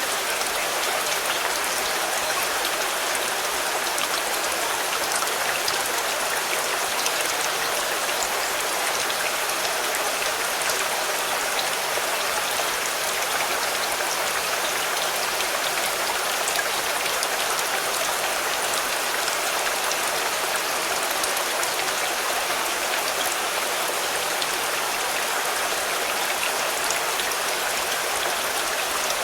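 Steady rain falling on a car: an even hiss of rain with fine scattered drop ticks.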